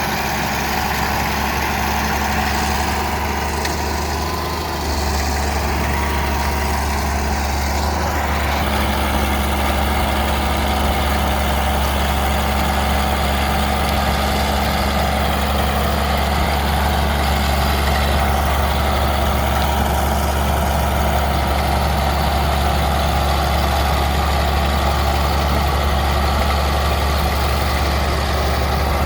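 Bulldozer's diesel engine running steadily with a deep, constant drone, growing slightly louder about five seconds in.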